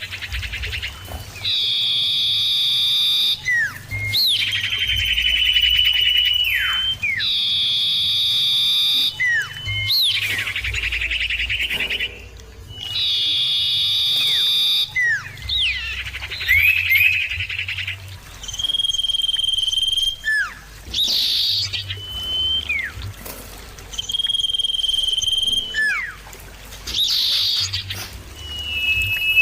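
Common iora (cipoh) singing: long drawn-out whistled notes and buzzy trills of a second or two each, alternating with short, sharply falling whistles, repeated over and over with brief pauses.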